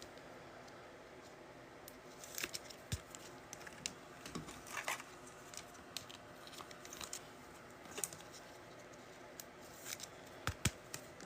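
Faint, scattered clicks and rustles of trading cards and their packaging being handled and sorted.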